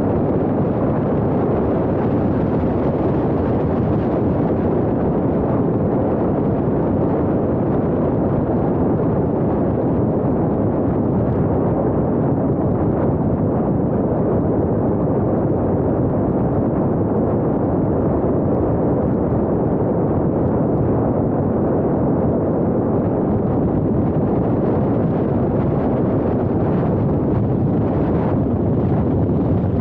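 Steady rumble of a car driving along a road: tyre and wind noise, even throughout, with no clear engine note.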